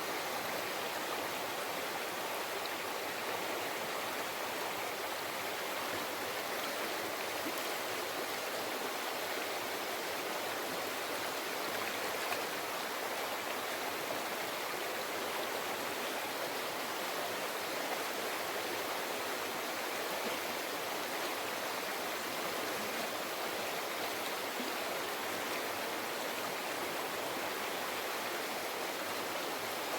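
Mountain stream flowing over rocks, a steady rushing and babbling.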